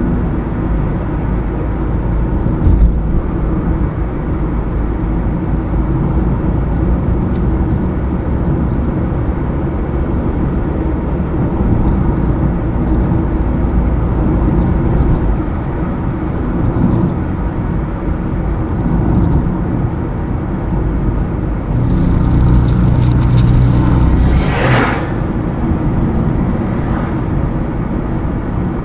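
Car driving on a highway, with steady engine and tyre-road rumble. From about 22 seconds in the noise grows louder and ends in a brief whoosh near 25 seconds.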